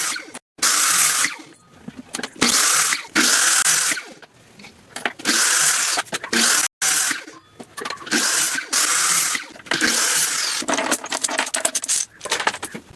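A tool working wood in a series of short, repeated strokes, each a burst of hissing noise lasting under a second. The sound drops out abruptly twice.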